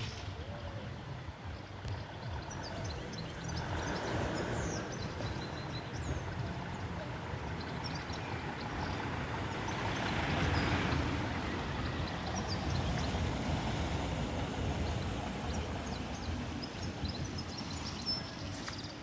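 Steady rushing outdoor noise with a low rumble, swelling about four seconds in and again around the middle, with faint, short, high bird chirps scattered through it.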